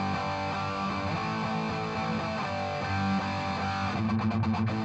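Amplified electric guitar playing a riff of picked and sustained notes with strong low notes. This is the processed guitar signal the player hears in his headphones, not the thin sound of the unplugged strings.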